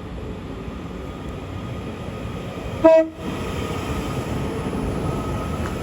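Northern Class 331 electric multiple unit arriving, its running noise building steadily. About three seconds in the driver sounds a very short two-note horn blast, the loudest sound.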